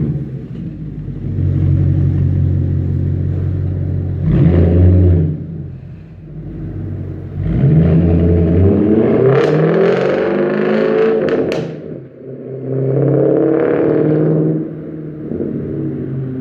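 Audi S5 with muffler and resonators deleted, engine revving and accelerating in several pulls, its exhaust note rising and falling. A few sharp cracks come around the middle.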